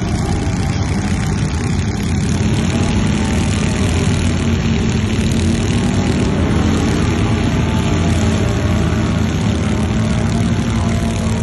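Off-road vehicle engine running steadily, holding a fairly constant speed, with a continuous hiss over the engine note.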